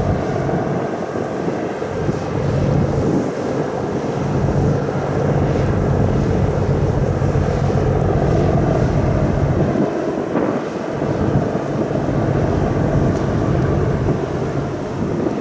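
Ferry's engines droning steadily, a constant low hum under a rushing noise, with wind buffeting the microphone.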